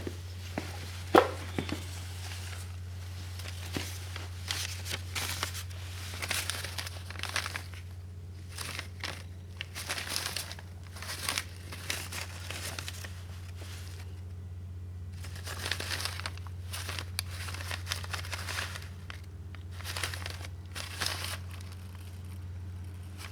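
Irregular crinkling and rustling of handled material, with a few sharp knocks, over a steady low hum.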